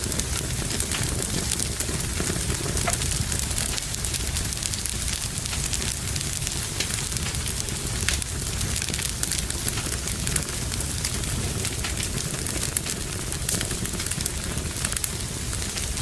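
Wood fire burning in a fireplace, crackling with many small, irregular pops over a steady low rumble and hiss.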